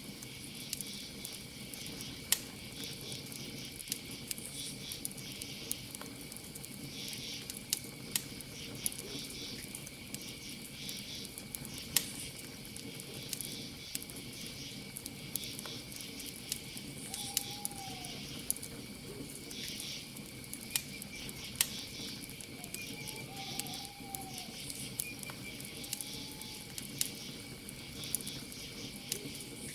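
Campfire crackling with scattered sharp pops, over a steady chorus of chirping crickets. A few brief calls sound in the second half.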